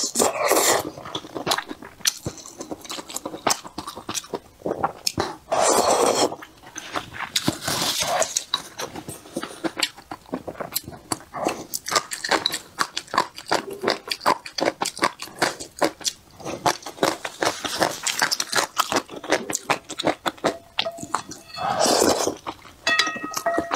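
Close-miked eating of dumplings in soup: a steady run of wet chewing and smacking mouth clicks, broken by three longer, louder slurps, about half a second in, around six seconds in and near the end.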